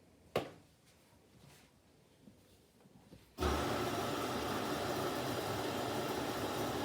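Candy GVF4 137 washing machine at the start of a wash: a sharp click about half a second in, then about three and a half seconds in a steady rush of water filling the machine starts suddenly with a low thump and holds on.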